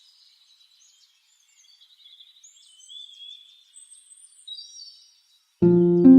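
Small birds chirping and trilling faintly, in short high calls. Near the end a harp comes in suddenly and loudly with a plucked chord that rings on.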